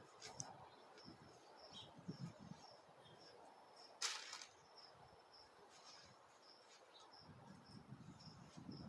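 Faint outdoor quiet with an insect chirping steadily, a short high chirp about twice a second, over soft rustling; a brief sharp rasp stands out about four seconds in.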